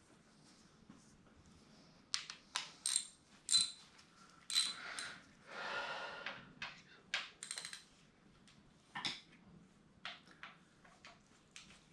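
Metal hand tools and engine parts clinking and tapping against each other, sharp ringing taps in irregular clusters, with a brief scraping rush about halfway through.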